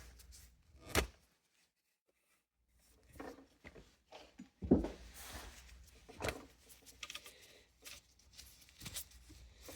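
Scattered knocks, taps and rustling from handling a box fan's motor and cleaning tools, with one sharper knock about halfway through. There is a second or so of dead silence near the start.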